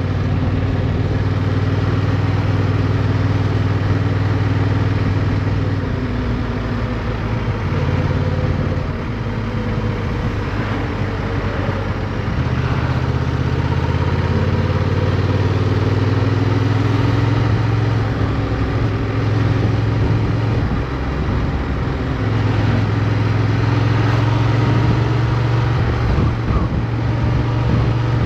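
Motorcycle engine running while riding, with wind rush over the onboard microphone. The engine note steps down and back up several times as the throttle and gears change.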